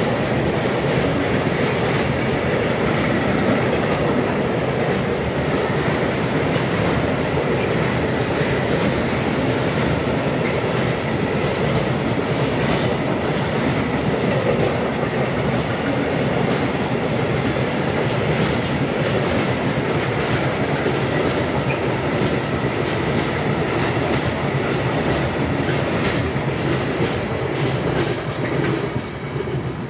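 Freight train of tank wagons rolling past: a continuous rumble and clatter of wheels over the rail joints, with a faint high steady whine. The sound starts to fade near the end as the last wagons go by.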